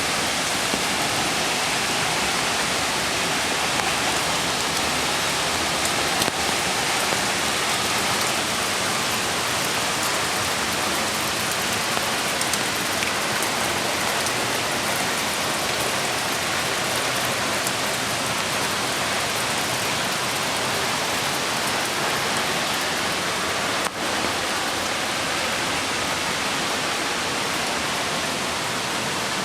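Steady rushing water: rain falling together with a mountain creek flowing over stones, an even hiss without pauses.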